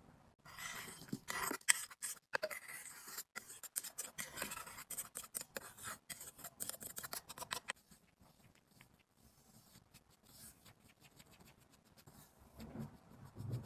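Close-up scraping and scratching at a powder compact, rapid and dense for about seven seconds, then a few light ticks and a soft low knock near the end.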